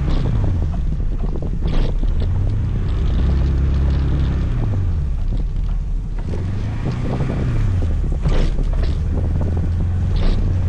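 Scooter engine running on the move, its pitch climbing and then falling off several times as the throttle is opened and closed, with wind rushing over the microphone.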